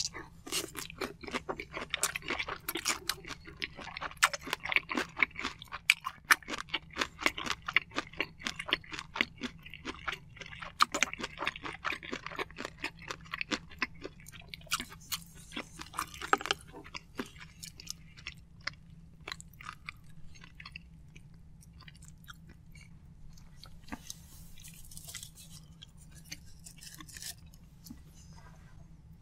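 Close-miked chewing of soy-sauce marinated shrimp (saeujang) and white rice: many quick clicks and smacks of the mouth. The chewing is dense for the first half and grows sparser and quieter from about 17 seconds in.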